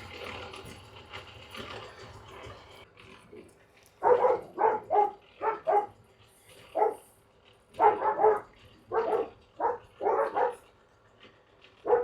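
A dog barking in quick runs of short, sharp barks, a dozen or so in all, starting about four seconds in. Before that, a steady machine noise fades away.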